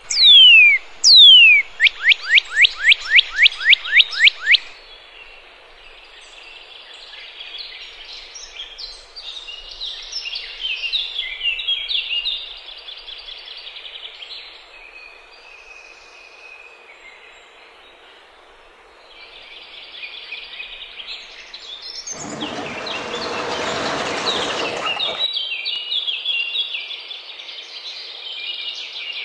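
Birds calling: two loud downward-sweeping calls, then a quick run of about ten falling notes, then steady chattering birdsong. A few seconds before the end, a rushing noise swells for about three seconds and fades.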